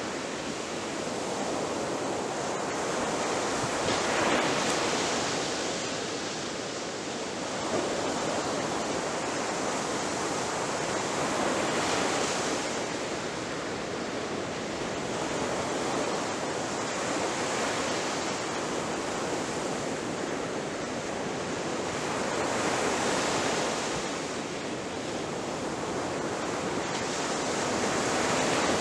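Ocean waves breaking on a shore: a continuous wash of surf that swells as each wave comes in, about every four to eight seconds.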